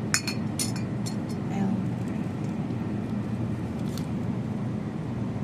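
Convenience-store background: a steady low hum and murmur, with a few sharp clinks in the first second and one more about four seconds in.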